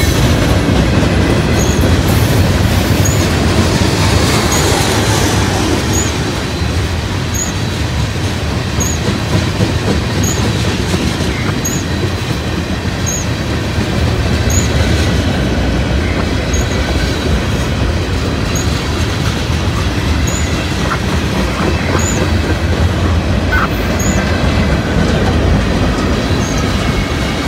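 Steel wheels of a long mixed-manifest freight train rolling past at close range, with tank cars and covered hoppers going by: a steady, loud rumble on the rails.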